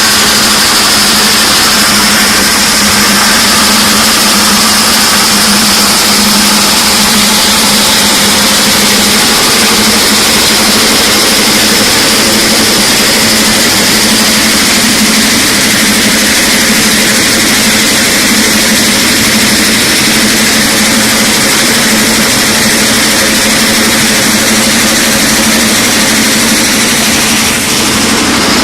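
A vibrating screen and an XSD wheel-bucket sand washing machine running together: loud, steady machinery noise with a constant low hum under an even wash of higher noise.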